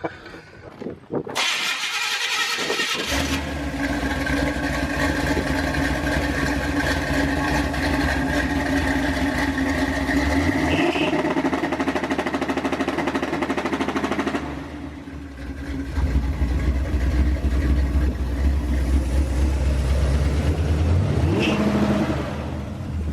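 Carbureted truck V8 brought up on a two-step launch limiter and held at a steady engine speed by it for about twelve seconds, then let down. It runs lower after that, with one quick rev near the end.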